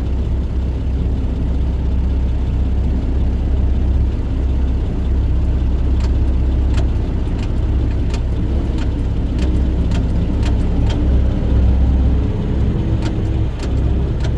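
Dump truck's diesel engine running steadily, heard from inside the cab as a deep drone, with scattered sharp clicks and rattles through the second half.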